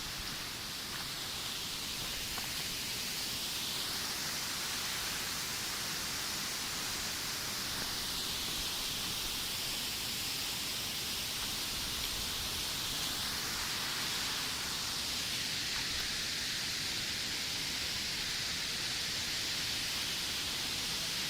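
Waterfall's steady rush of falling water, a continuous hiss that slowly drifts higher and lower in pitch.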